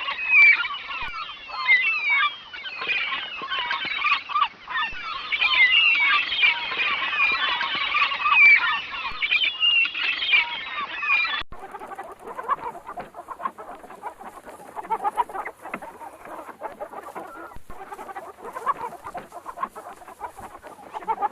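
A flock of domestic fowl calling densely and loudly. About eleven seconds in it cuts suddenly to a quieter, lower run of clucking calls.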